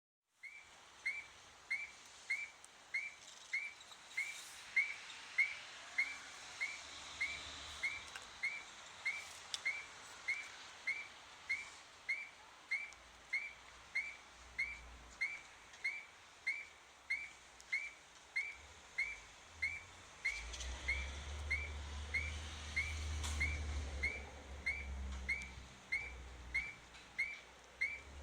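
Old-style tram-stop train information display beeping, a short high electronic beep repeating evenly about one and a half times a second. A low rumble swells underneath about two-thirds of the way through.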